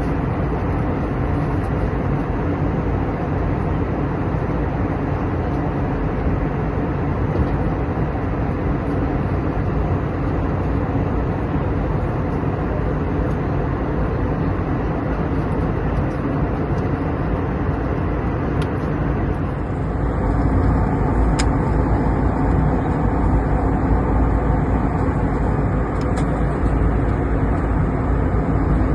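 Steady cabin noise of a jet airliner in flight. About two-thirds of the way through it becomes louder and deeper.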